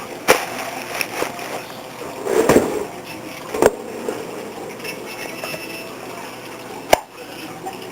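Handling noises while feeder crickets are being got out: scattered knocks and clicks, a short rustle about two and a half seconds in, and a sharp click near the end.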